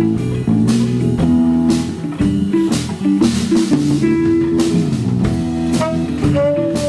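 Live rock band playing an instrumental jam: guitar lines over bass and drum kit with regular cymbal hits, and a held guitar note near the end.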